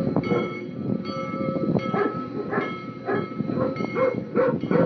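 Train running, a dense rumble with short repeated bursts of sound.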